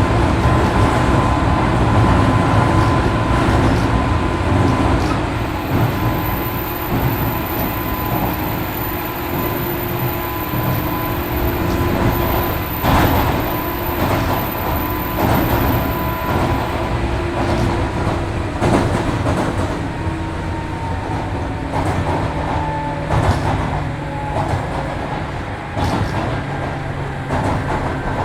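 Interior running sound of a 103 series 1500-subseries electric train: steady wheel and motor rumble with a few sharp rail-joint clicks. In the second half its motor and gear tones fall in pitch.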